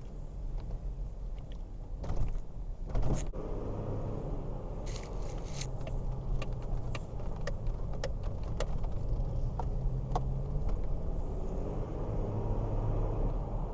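2008 Toyota Tacoma pickup driving slowly, heard from inside the cab: a steady engine and road hum, with louder jolts about two to three seconds in as it goes over speed bumps, then scattered light clicks and rattles.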